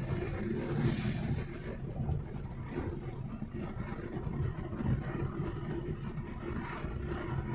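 Turbocharged MG5 running on the road with steady engine and road rumble. About a second in, an aftermarket blow-off valve vents once: a short hiss with a high whistle falling in pitch, the sign of boost being dumped as the throttle closes.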